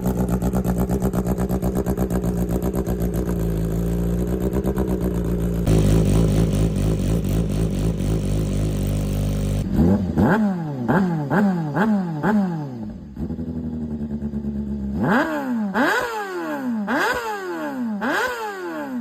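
Motorcycle engine running steadily, then revved hard again and again. Two runs of quick throttle blips, each rising sharply in pitch and dropping back, are separated by a short pause.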